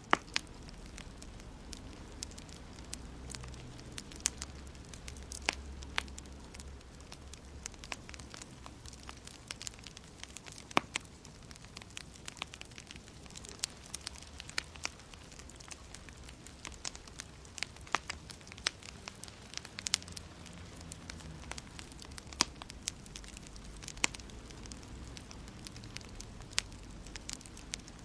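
Wood fire in a fireplace crackling, with frequent irregular sharp pops and snaps over a low, steady rumble of the flames.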